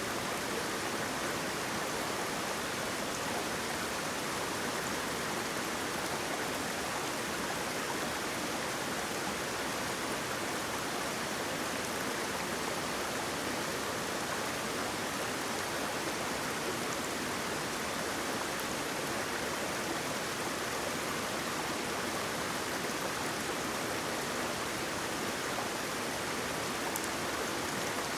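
Waterfall: water rushing and splashing in a steady, unbroken wash.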